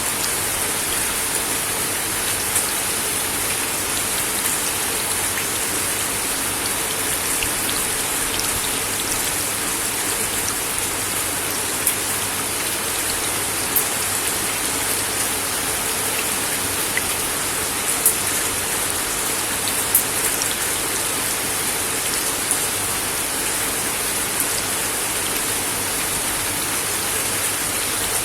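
Steady rain falling on a wooden deck, a continuous hiss with now and then a single louder drop striking the boards.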